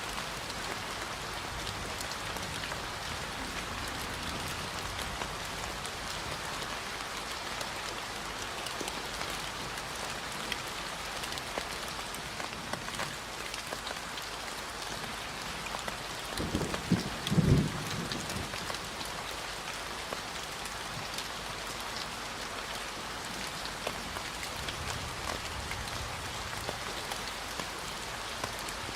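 Steady rain falling: a dense, even hiss with individual drops clicking. Just over halfway through comes a short, loud, low rumble lasting about a second and a half.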